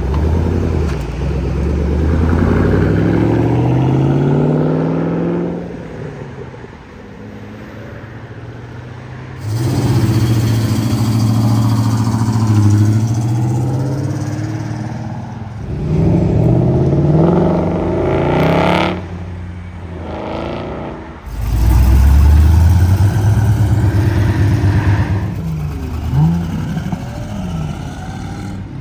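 Muscle and classic car engines accelerating away one after another, their pitch rising as they rev up through the gears. The sound comes in several separate passes, each cutting off suddenly before the next begins.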